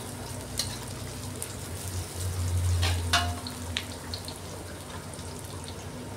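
Chopped garlic, shallots and bird's eye chilies sizzling in hot oil in an aluminium wok, stirred with a metal spatula. The spatula scrapes and clinks against the pan a few times about three seconds in, one clink briefly ringing.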